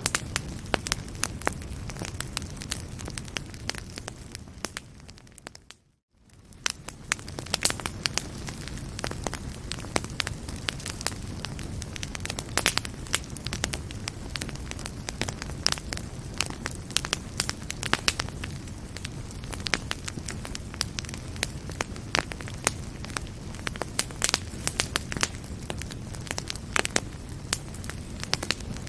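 Wood fire burning in a fireplace: a steady low rumble with frequent sharp crackles and pops. About six seconds in the sound fades down to near silence for a moment, then fades back up.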